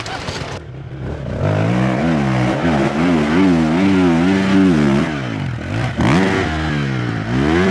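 Enduro dirt bike engine revving, its pitch rising and falling rapidly as the throttle is worked on and off. It drops off about five seconds in, then climbs to a high steady rev near the end.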